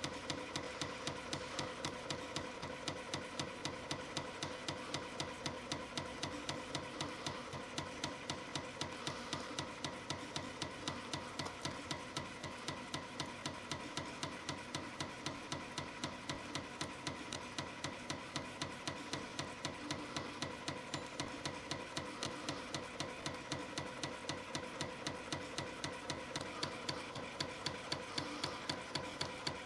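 CNC spring coiling machine forming 0.6 mm wire into compression springs: a rapid, even clicking from the cutting and forming cycle over a steady motor whine.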